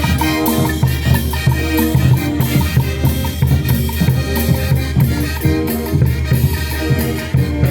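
Loud Latin American band music with drums and percussion keeping a steady beat under sustained melody instruments.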